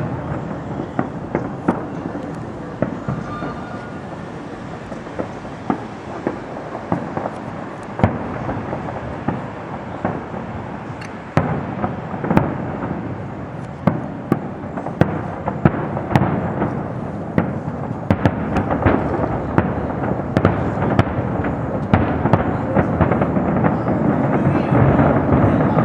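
Fireworks going off: many sharp bangs at irregular intervals, coming closer together and louder toward the end until they overlap into a continuous rumble.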